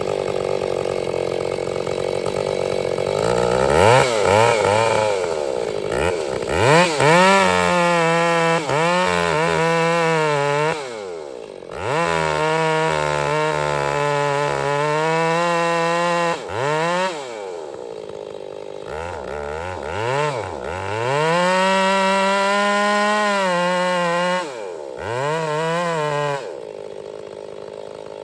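Chainsaw cutting into a large dead pine tree: the engine revs up and down repeatedly, its pitch sagging and recovering under load. It drops off briefly about twelve seconds in and falls back near the end.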